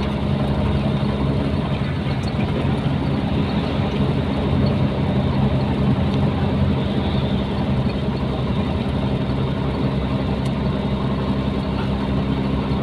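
Nissan Diesel container truck's diesel engine running steadily at an even pitch, with road noise underneath.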